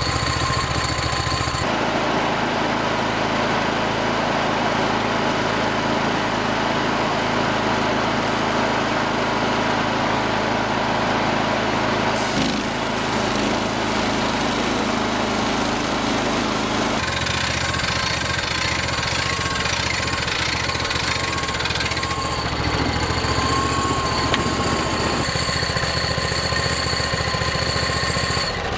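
Hudson Warrior portable sawmill's engine running steadily as the mill cuts a log. The pitch and tone shift abruptly a few times.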